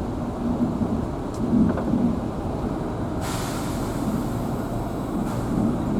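Low, steady rumble of a vehicle driving on a forest road, heard from inside the vehicle. A hiss starts suddenly about three seconds in and lasts about two seconds.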